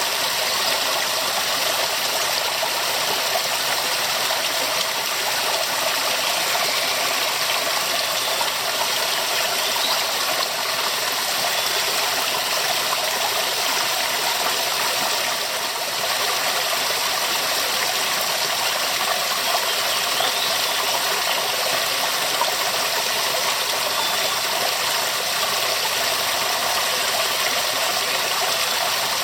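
Waterfall: a steady rush of falling water, bright and hissy, with little low rumble.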